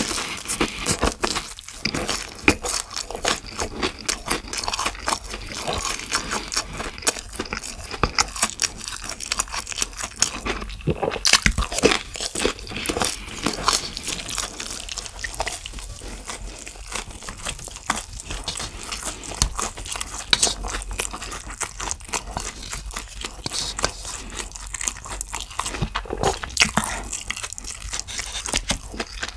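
Close-miked crunching and chewing of crisp deep-fried food, a fast irregular run of crunches and wet chewing from start to end.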